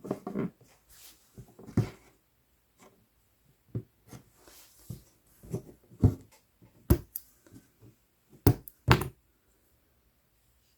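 Hand cross-stitching on 11-count Aida fabric: irregular clicks and taps as the needle pierces the cloth, with soft rustling as the embroidery floss is drawn through. The sharpest taps come in the second half.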